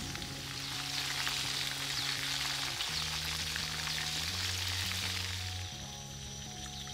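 Whole quail deep-frying in hot oil in a wok: a steady, dense sizzle that fades near the end.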